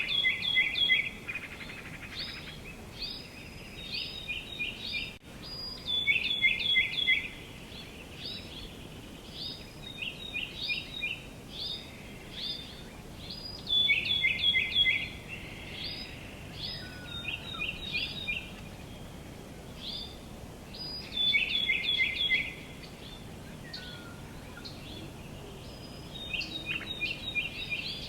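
Songbirds singing. One bird repeats a song of quick down-slurred notes every several seconds, with softer chirps between the songs, over a faint steady outdoor background hiss.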